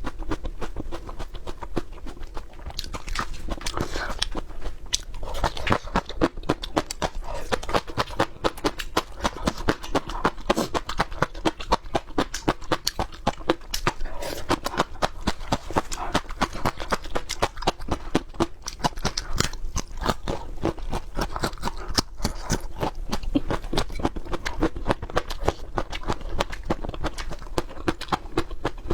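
Close-up crunchy chewing of raw peppers: a steady run of sharp crunches and chews, about three a second.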